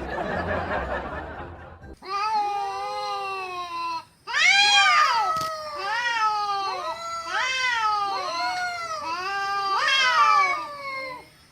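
A cat meowing over and over in a quick string of short rising-and-falling meows, roughly two a second, with a brief pause partway through. It is preceded by about two seconds of rushing noise.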